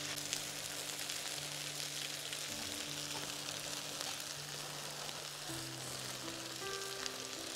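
Stir-fried noodles and vegetables sizzling in a wok: a steady hiss, under soft background music of long held notes that change every second or two.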